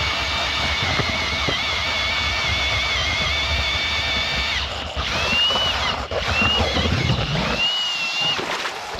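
A small engine runs steadily with a wavering whine, then revs up in three rising surges before dropping away.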